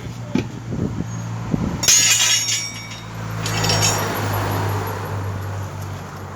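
Metal tools clanking and clinking against a steel truck wheel rim during tyre changing, with a few knocks, over a steady low machine hum; a brief rushing noise swells and fades near the middle.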